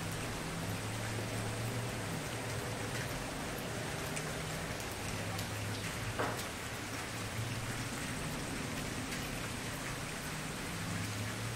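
Wood fire burning, a steady hiss with many small crackles and one louder pop about six seconds in.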